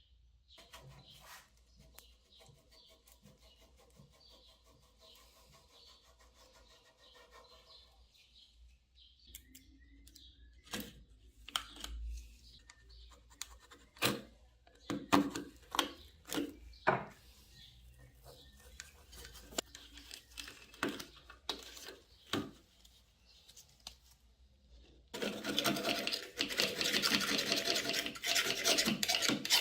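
Fishing rod and reel parts being handled: scattered clicks and knocks, then a loud, fast scratching rasp in the last few seconds.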